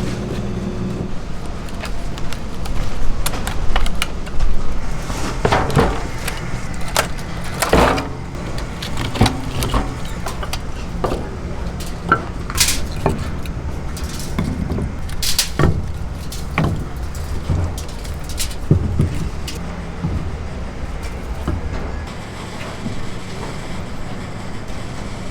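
Food-preparation clatter: frequent short knocks and clicks over a steady low hum, busiest in the first third and again around the middle.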